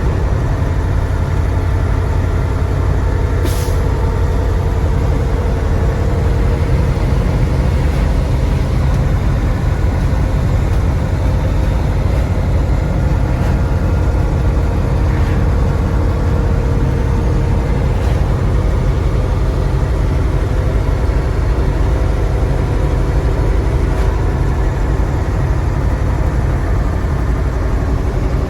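Mercedes-Benz SK 1729 truck's 15-litre OM442 V8 diesel running steadily, with a short hiss of compressed air about three and a half seconds in.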